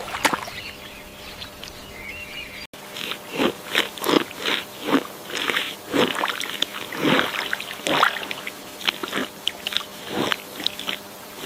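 A run of short, irregular crunching sounds, roughly two to three a second, which start after a sudden break about two and a half seconds in.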